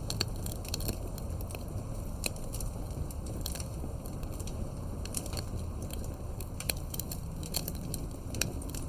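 Wood campfire burning, with a steady low rumble of flames and frequent sharp, irregular crackles and pops from the burning wood.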